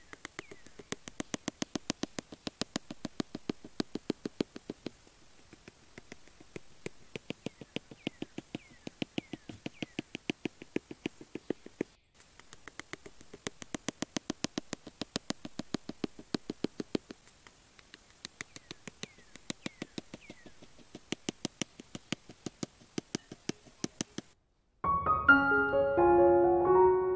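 Small hammer tapping thin wooden sticks into a diorama base: quick light taps, several a second, in runs with short pauses between them. Piano music comes in near the end.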